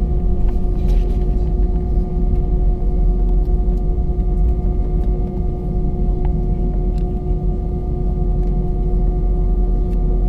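Airbus A319's jet engines heard from inside the cabin: a loud, steady rumble with several steady engine tones held over it.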